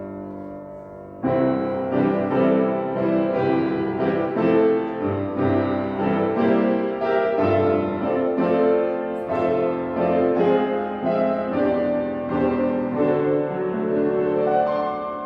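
Solo piano playing: a held chord dies away, then about a second in a louder passage of full chords and quick-moving notes comes in, easing off near the end.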